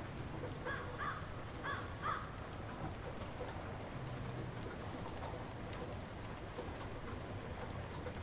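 Light rain falling steadily, with a bird giving four short calls in two pairs near the start.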